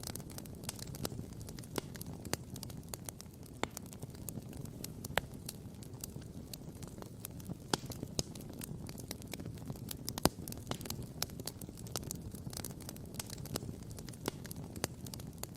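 Wood campfire crackling and popping: a dense, irregular run of sharp pops, a few louder ones among them, over a low steady rush.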